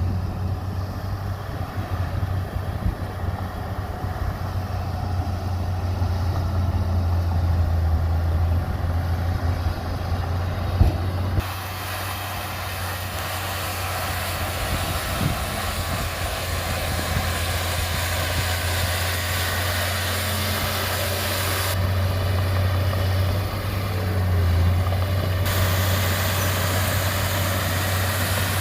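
Heavy diesel earthmoving machinery running steadily with a deep engine hum, with one sharp knock about eleven seconds in.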